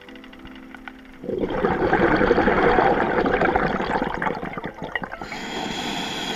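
A loud, crackling rush of air bubbles underwater, starting about a second in and fading out near the end, over soft background music.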